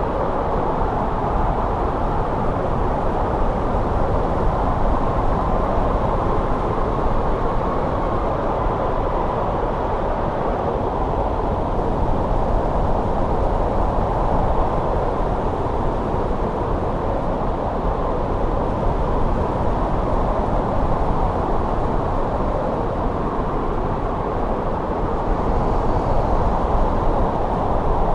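Winter wind blowing steadily, a continuous low rushing with no breaks or gusts standing out.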